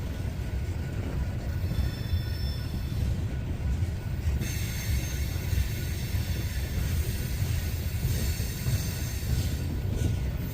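Cars of a loaded coal train rolling past, a steady heavy low rolling noise of steel wheels on rail. About four seconds in, a high-pitched wheel squeal joins it and holds until near the end.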